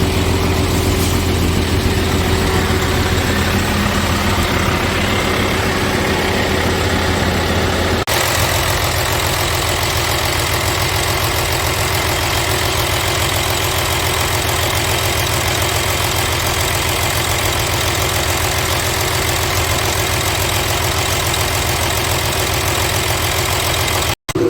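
Scania R450 truck's 13-litre inline-six diesel idling steadily, with no revving; the sound changes abruptly about eight seconds in, from a deeper tone to a lighter, more clattery one.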